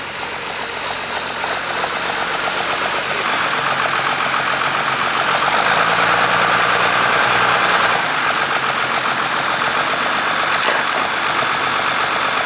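Tractor engine running steadily with a fast, even firing beat, growing louder to a peak a little past the middle, then easing slightly.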